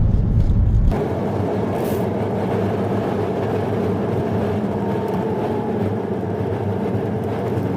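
Steady wind and road noise inside a moving vehicle in a strong wind storm. The deepest rumble drops away about a second in.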